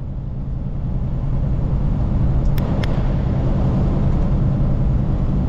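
Steady low rumble of a moving road vehicle, with two faint clicks a little past halfway.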